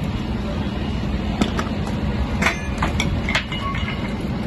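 Low engine rumble of a heavy vehicle in city street noise, with several short sharp clicks and knocks.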